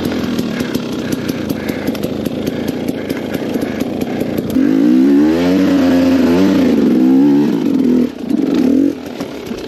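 KTM 250 XC-W two-stroke dirt bike engine running, then revved hard from about halfway through, its pitch rising and falling with the throttle. It dips briefly near the end before picking up again.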